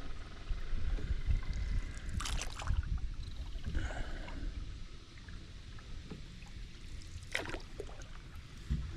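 Paddle strokes in water: two splashing strokes, one about two seconds in and one near the end, with trickling drips between them and a steady low rumble underneath.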